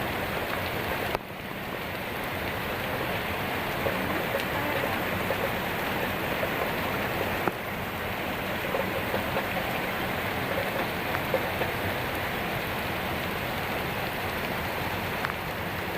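Heavy rain pouring down steadily, a continuous hiss with scattered sharper drop impacts on surfaces.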